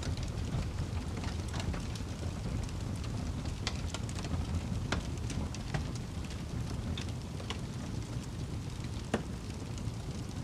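Fire burning in a fireplace: a steady low rumble with scattered crackles and pops, the sharpest pop near the end.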